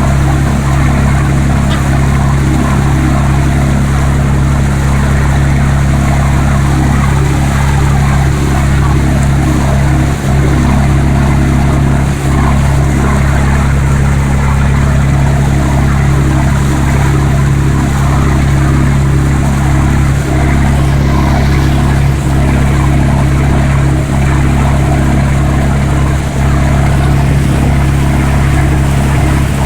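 Fishing trawler's diesel engine running steadily under way, a loud, even low drone with water and hiss over it.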